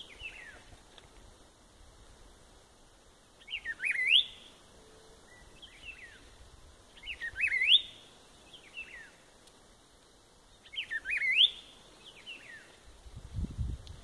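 A songbird singing the same short phrase three times, about three and a half seconds apart: quick sweeping notes that end in a sharp rising whistle, with softer falling calls in between. Low thumps near the end.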